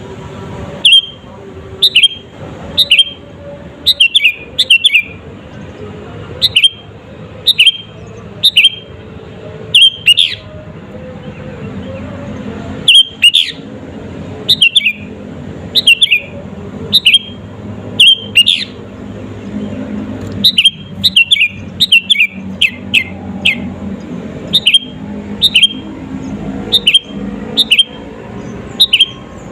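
Sooty-headed bulbul (kutilang) calling with short, loud, sharp notes, roughly one a second, some in quick pairs or runs, over a low steady background.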